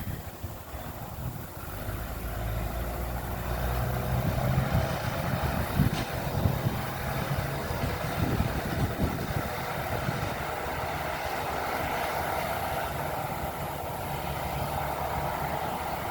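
Bulldozer's diesel engine working steadily and growing louder about two to four seconds in, with a few sharp knocks about six seconds in.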